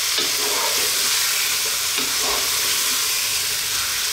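Chicken pieces, chopped onions, garlic and red lentils sizzling steadily in oil in a pot on a medium heat while a wooden spatula stirs them, with a few short scrapes against the pot.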